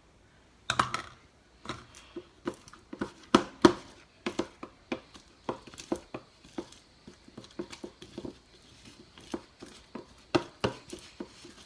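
Sticky homemade slime being mixed and worked after more activator has gone in, giving irregular wet clicks and pops, a few a second.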